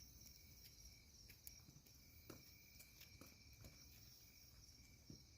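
Near silence: faint, steady chirring of night insects such as crickets, with a few scattered soft clicks.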